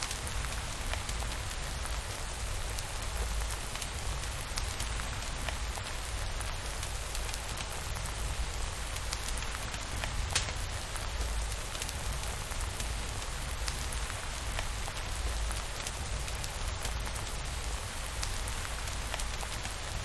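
Steady rainfall with a low rumble underneath and scattered sharp clicks of drops.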